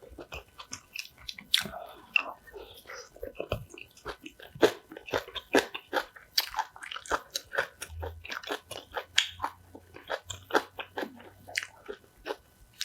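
Close-up chewing and crunching of crisp kimchi: irregular crisp crunches and wet chewing clicks, several a second.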